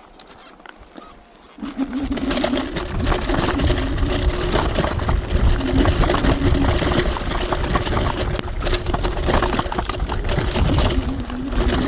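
TRBK-M2 electric hyperscooter setting off about a second and a half in and riding over rough off-road ground: a wavering electric motor whine over constant rattling and a low rumble.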